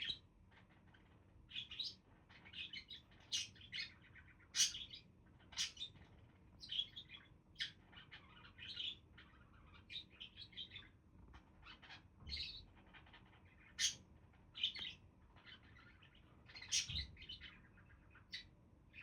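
Budgerigars chirping: a stream of short, high chirps coming in quick, irregular clusters, several a second at times.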